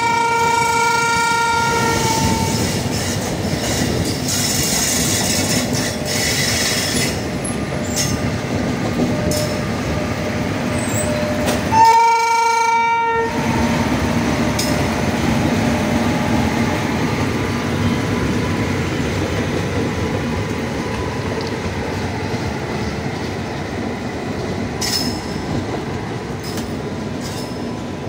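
Indian Railways express train running by with steady wheel and carriage rumble. The locomotive horn sounds twice: a long blast at the start and a shorter one about twelve seconds in.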